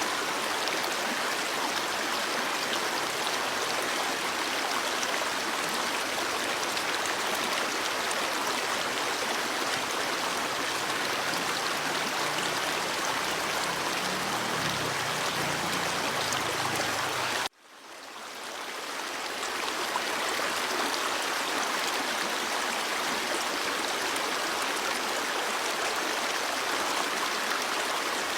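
Stream water flowing and splashing steadily. About seventeen seconds in the sound cuts out abruptly and fades back up over a couple of seconds.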